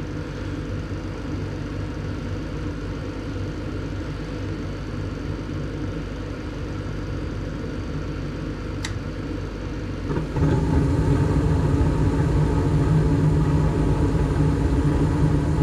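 Gas furnace running with its burners firing, a steady mechanical rumble and hum. About ten seconds in the sound steps up to a louder, steady hum as another motor in the furnace comes on.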